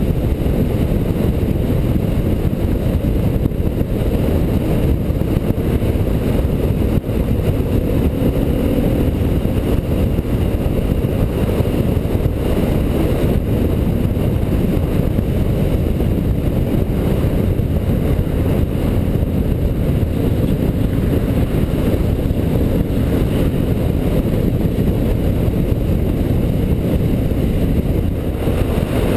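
Motorcycle running steadily while being ridden, its engine drone nearly buried in a heavy, even low rumble of wind and road noise.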